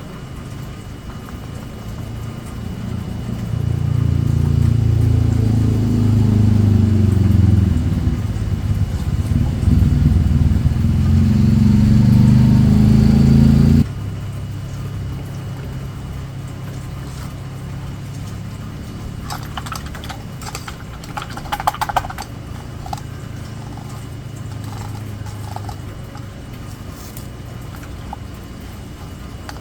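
An engine running nearby, its pitch shifting up and down as it grows louder from about four seconds in. It cuts off suddenly about fourteen seconds in, leaving a quieter low hum, with a few sharp clicks later on.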